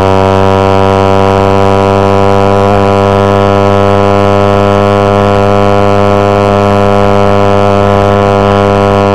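Suzuki GSX-R150's single-cylinder engine running loud at high revs, held at a steady pitch during a flat-out top-speed run.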